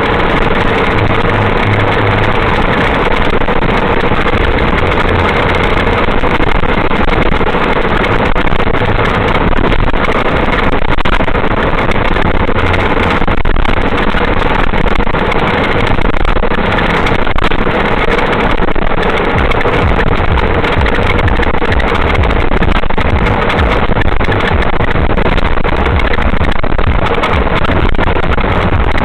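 Steady, loud vehicle driving noise, engine rumble mixed with road noise, with no distinct impact or crash.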